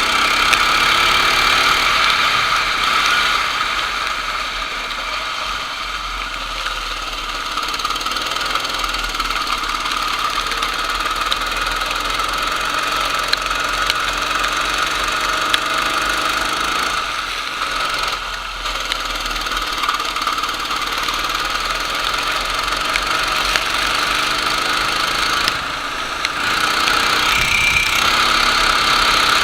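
Racing kart engine running hard, its pitch rising and falling again and again as the throttle is opened and closed, with a couple of brief drops in level.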